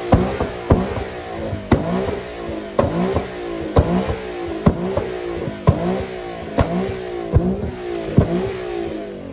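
Car engine revved over and over, its pitch climbing and dropping about once a second, with a sharp crack on each rev.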